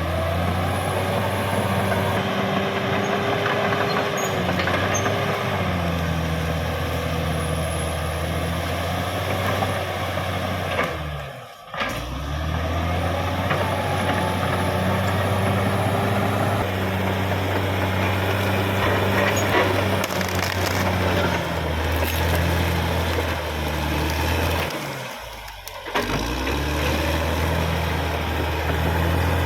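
Caterpillar D6R XL bulldozer's diesel engine running steadily at a low, even pitch. The sound dips out sharply twice, about 12 seconds in and near the end.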